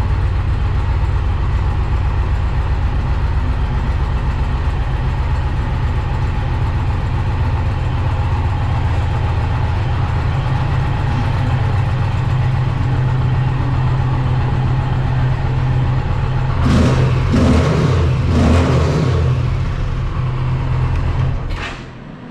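2020 Indian Challenger's liquid-cooled PowerPlus V-twin idling steadily. It is blipped with the throttle three or four times about three-quarters of the way through, then shut off near the end.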